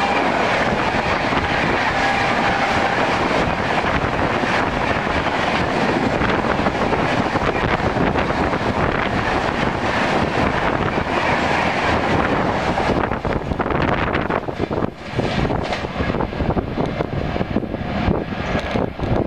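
Indian express passenger train passing at speed: a steady rushing noise of wheels and coaches on the rails, which thins about thirteen seconds in into separate wheel clacks as the last coaches go by.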